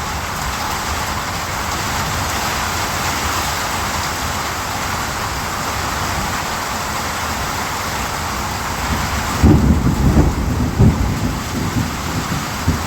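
Steady heavy rain hissing. About two-thirds of the way in, a low rumble of thunder breaks in with several loud peaks, then fades back under the rain.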